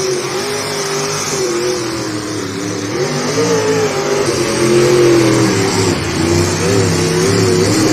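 Pulling vehicle's engine running hard under load during a pull, its pitch wavering up and down and growing louder about halfway through.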